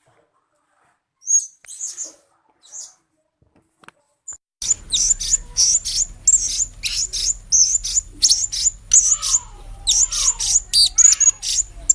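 Blue-crowned hanging parrot calling: a few scattered thin chirps, then, from about halfway in, a fast run of short, sharp, high-pitched calls, about three or four a second, over a low hum.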